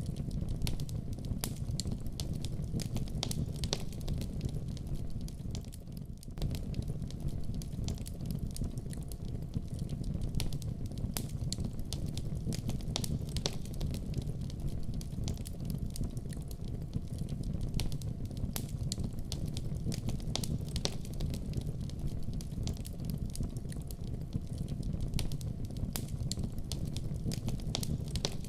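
Wood fire burning in a fireplace, crackling and popping: a steady low rumble of the flames with many small irregular snaps throughout.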